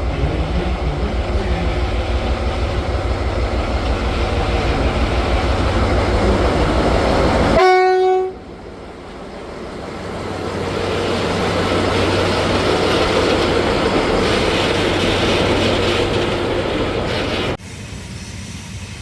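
A rail vehicle's engine runs with a steady low throb. About eight seconds in it gives one short horn blast on a single note and the throb stops. A rushing noise then builds and cuts off suddenly near the end.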